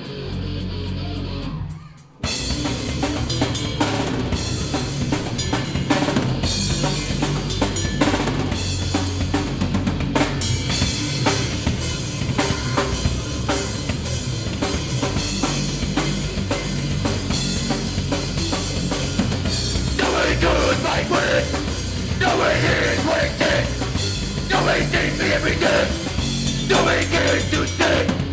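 Live punk band playing loud: a guitar alone at first, a sudden break about two seconds in, then the full band comes in with drum kit and bass.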